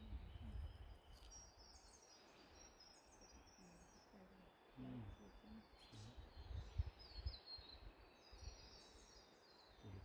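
Faint forest birdsong: runs of short high chirps, each run stepping down in pitch, repeated over and over, with occasional low rumbling underneath.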